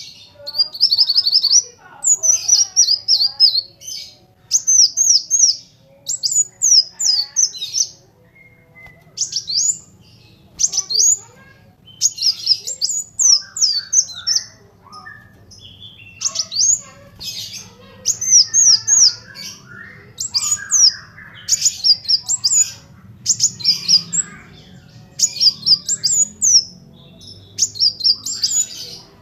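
Kolibri wulung sunbird singing: bursts of rapid, high, thin chirps and twitters, each run lasting a second or two, repeated again and again with short pauses between them.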